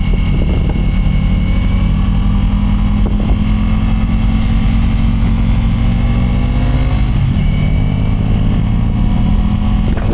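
Motorcycle engine running steadily under way while riding up a hill; its pitch shifts down about seven seconds in.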